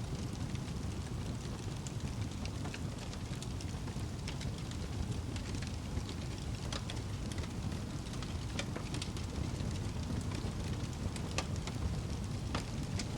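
Wood fire burning in a fireplace: a steady low rumble and hiss with sharp crackles and pops scattered irregularly throughout.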